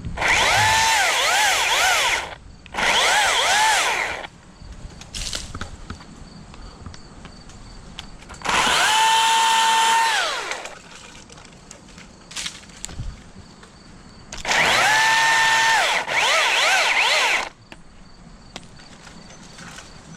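Chainsaw cutting a limb of a dead tree in four bursts, running at a high whine. In the first two bursts the pitch dips and recovers as the chain bites into the wood. In the later two it holds steady, and the saw stops completely between bursts.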